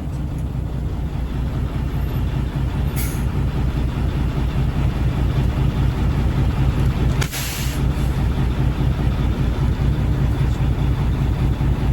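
Triaxle dump truck's diesel engine running steadily with a low drone, with a brief hiss of air about three seconds in and a louder hiss of air from the truck's air brakes a little after seven seconds.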